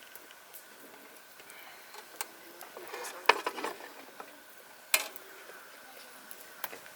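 Light clinks and knocks of cooking utensils and dishes being handled, with two sharper clinks about three and five seconds in.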